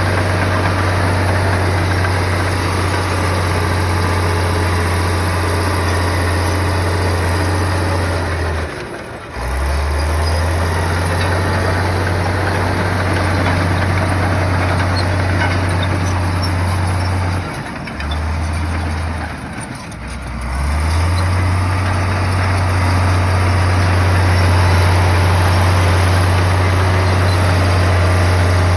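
Heavy earthmoving machine's diesel engine running with a deep steady drone, which breaks off briefly about a third of the way in and again for a few seconds about two-thirds through.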